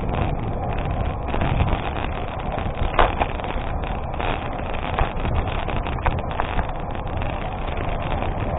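Wind buffeting the microphone over the rumble of bicycle tyres rolling on an unpaved gravel road, with a few sharp clicks from stones and bumps.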